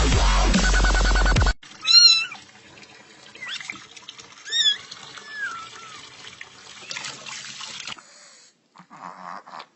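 Dubstep music cuts off about a second and a half in. A domestic cat then meows three or four times, each meow wavering in pitch, the first near the start being the loudest.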